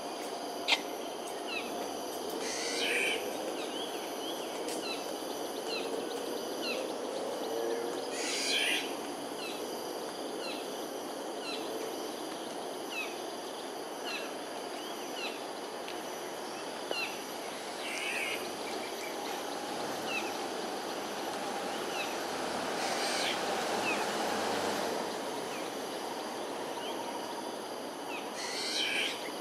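Wild birds calling: a run of short falling chirps, about two a second, broken every few seconds by a louder burst of quick notes. Steady insect drone and a constant background hum underneath.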